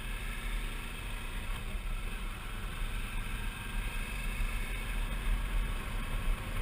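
Suzuki V-Strom 650's V-twin engine running steadily at cruising speed, with a steady rush of wind from the moving motorcycle.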